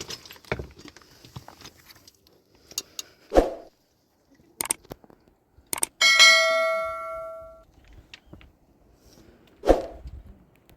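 A few scattered knocks and clatters, then about six seconds in a metal object is struck once and rings with a bell-like tone that fades over about a second and a half.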